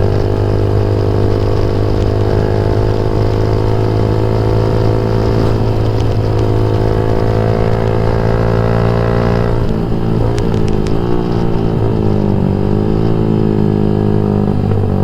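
Yamaha MX King 150's single-cylinder four-stroke engine running through a Rob1 TGA aftermarket exhaust, held at a steady throttle while riding. About ten seconds in the throttle closes: the pitch drops and a few sharp pops come from the exhaust on the overrun, then the engine pulls up again.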